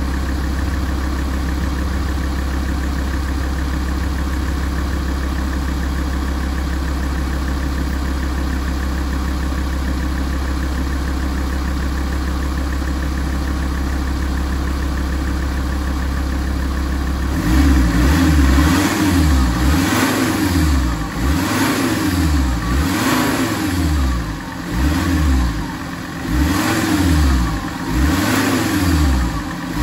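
Alfa Romeo 166 facelift's 2.4 JTDm five-cylinder turbodiesel idling steadily while warmed up for a service test, then, a little past halfway, blipped repeatedly, its revs rising and falling every second or two.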